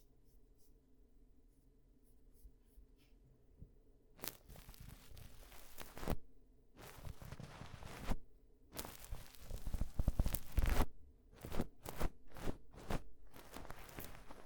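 Ear-cleaning ASMR scratching and rubbing right at the microphone: faint light ticks at first, then from about four seconds in, three long scratchy strokes followed by a quicker run of short ones.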